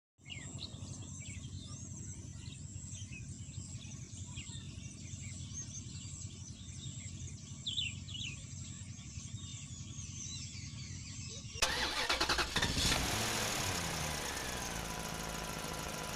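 A motor running low and steady, with birds chirping high above it. About eleven and a half seconds in, louder electronic music cuts in abruptly.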